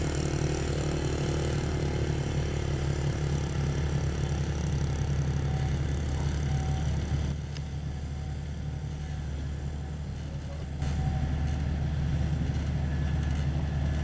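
Komatsu GD555 motor grader's diesel engine running steadily. It drops in level for about three seconds midway, then comes back up.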